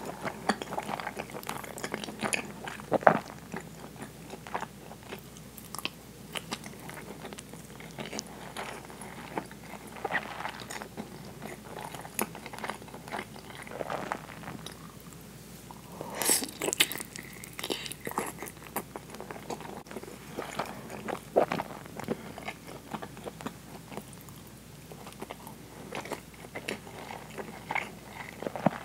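Close-miked chewing and biting: wet mouth sounds of eating soy-braised pork belly and rice, with irregular smacks and clicks. There is a louder cluster a little past halfway.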